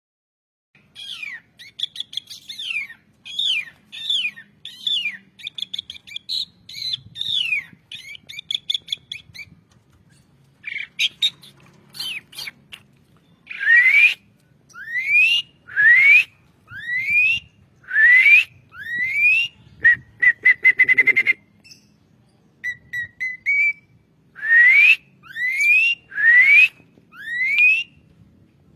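Jalak suren (Javan pied starling) singing a series of clear whistles: first quick falling notes, then rising whistles about one a second, with a rapid run of short notes just after the middle.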